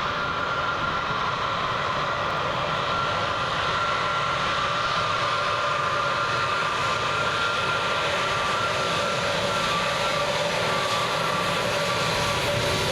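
Jet airliner engines running steadily: a whine with a few held tones over a wide rush of noise that slowly grows brighter.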